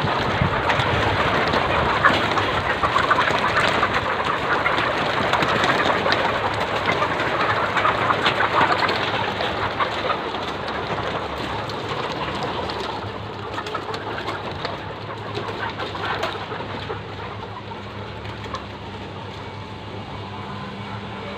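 A flock of laying hens clucking and calling together, a dense continuous chatter that fades over the second half. A steady low hum comes up under it later on.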